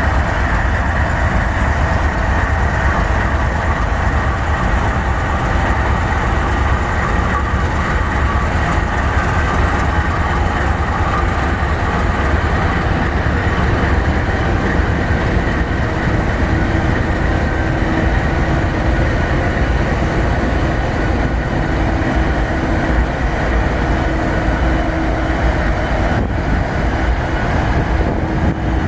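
Five Norfolk Southern and BNSF diesel-electric locomotives running steadily while standing, building up air pressure in a long freight train's brake line. A steady hum joins in about halfway through.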